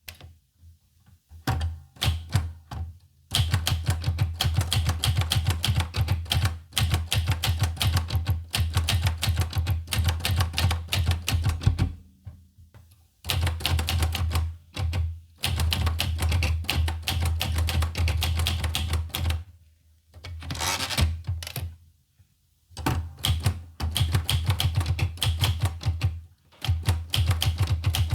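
Olivetti Lettera 25 manual portable typewriter being typed on: rapid key strikes in runs of several seconds, broken by short pauses.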